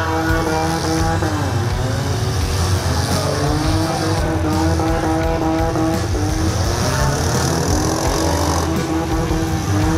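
Several demolition derby cars' engines running hard at once, revving up and down in pitch as the cars push and ram each other, over a constant low rumble.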